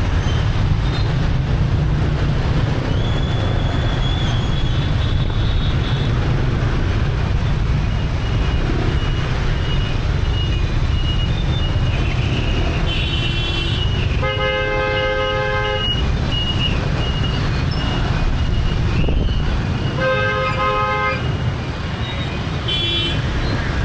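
Street traffic heard from a moving motorbike: a steady low rumble of engines and road, with vehicle horns honking over it. One horn sounds for about two seconds around the middle, another more briefly a few seconds later, and short high beeps come just before the first and near the end.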